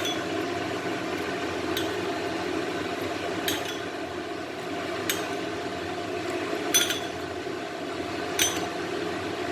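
A spoon or ladle clinking against the pot about every second and a half as the soup is stirred, each clink ringing briefly, over a steady background hum.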